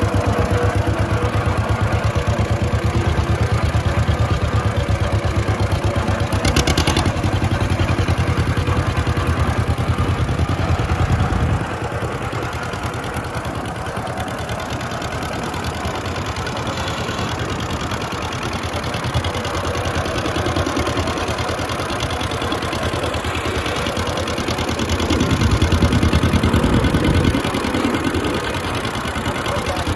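John Deere LA tractor's small two-cylinder engine running steadily on its newly swapped-in donor engine. The sound drops in level about a third of the way in and swells again for a couple of seconds near the end.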